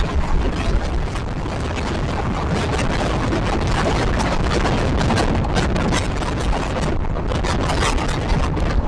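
Passenger express train running on the line, heard from on board: a continuous rumble and rush of air, with quick irregular clicks and rattles of the wheels and coaches throughout.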